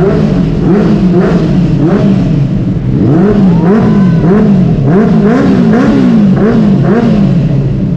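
Motorcycle engine being revved in quick repeated blips, its pitch rising and falling about once or twice a second.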